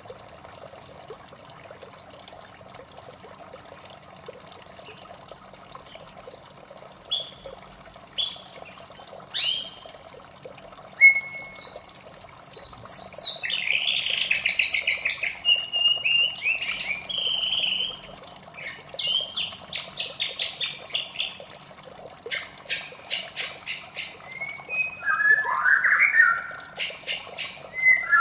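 White-rumped shama singing: a few sharp separate notes from about seven seconds in, then a rich, varied run of whistles, trills and rapid repeated notes, over a steady background of running water.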